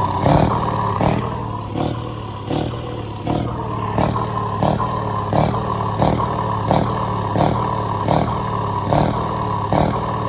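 Scania V8 truck engine running steadily, a low even drone.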